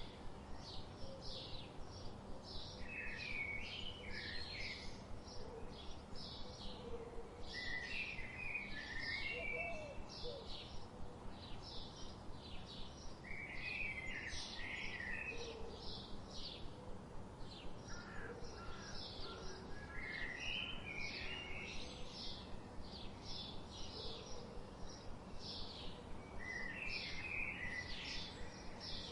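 Songbirds singing: a steady run of short, high chirps, a few each second, with a lower warbling phrase about every five or six seconds, over a steady low hiss.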